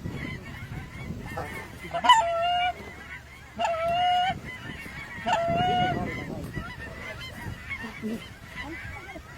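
Geese honking: three long, steady-pitched honks about a second and a half apart, with fainter scattered goose calling between them.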